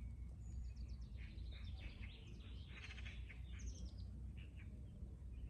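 Small birds chirping and twittering in quick high trills, busiest around the middle, over a steady low rumble.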